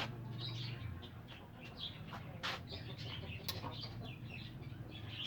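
A flock of caged birds chirping continuously, with hens clucking among them. A steady low hum runs underneath, and there are two sharp clicks about two and a half and three and a half seconds in.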